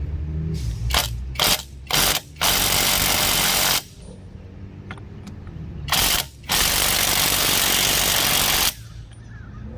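Impact wrench working a lug nut through a 21 mm socket: a few short blips, then two long bursts of hammering of about one and a half and two seconds, with a pause between.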